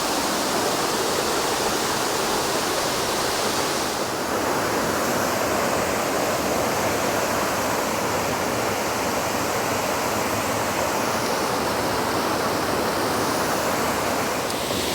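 Waterfall rushing: a steady, even roar of falling water, its tone shifting slightly about four seconds in and again near the end.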